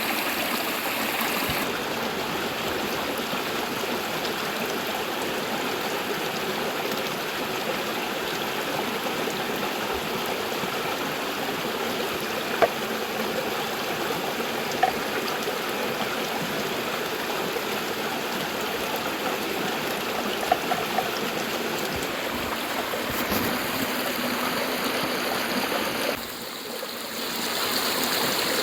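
A river running steadily, a constant rush of flowing water, with a few small sharp clicks. The rush dips briefly near the end, then comes back.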